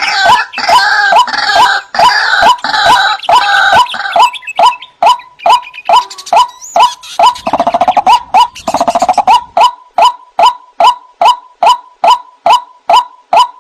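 White-breasted waterhen calling: a steady run of short, loud 'wak' notes, about three a second. Over the first four seconds, and again about eight seconds in, other overlapping calls thicken it into a chorus.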